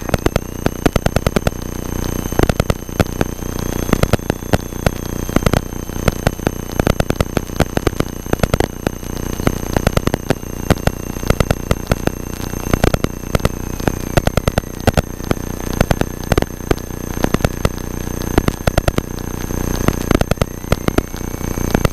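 Cessna 172 cockpit noise on final approach, its engine running, drowned under rapid, irregular crackling and clicking electrical interference in the recording, with steady high-pitched whines over it.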